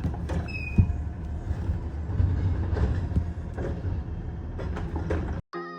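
McNeilus ZSL garbage truck running, with a steady low engine rumble, scattered clanks and knocks, and a brief high squeal about half a second in. The sound cuts off abruptly near the end, and music begins.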